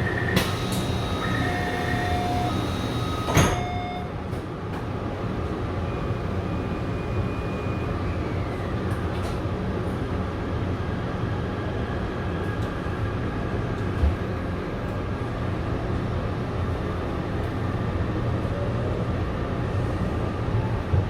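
Taipei Metro train's door-closing chime beeping in a short pattern, then the sliding doors shutting with a clack about three seconds in. After that comes the train's steady rumble with a faint electric whine that glides down in pitch.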